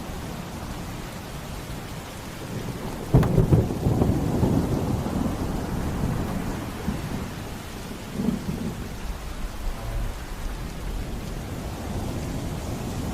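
Thunderstorm with steady rain; a sudden thunderclap about three seconds in rolls on as a low rumble for several seconds, with a smaller rumble later.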